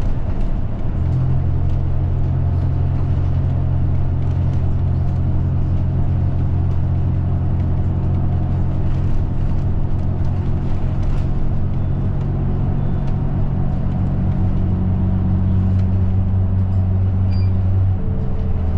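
Route bus heard from inside the cabin while driving: a steady low engine drone over road noise, its note shifting slightly near the end.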